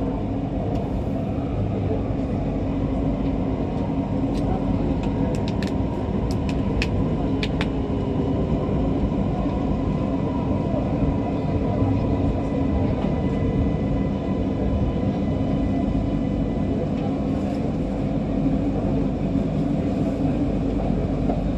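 MRT Kajang Line metro train running, heard from the cab: a steady rumble with a thin, steady whine over it. A few sharp light clicks come between about four and eight seconds in.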